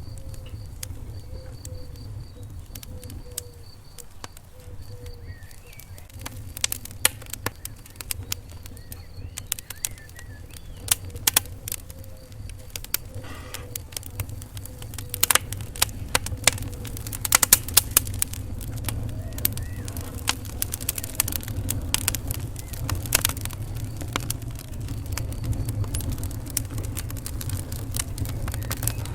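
Wood fire burning in a fireplace: many sharp crackles and pops over a steady low rumble of flames. The pops come thicker and louder after the first few seconds.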